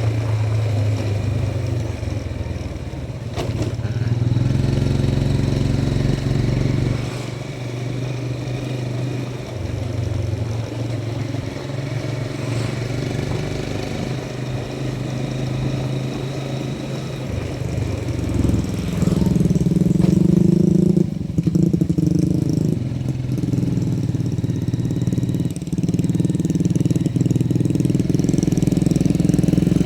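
Motorcycle engine running under way, its pitch and loudness stepping up and down several times as the throttle changes.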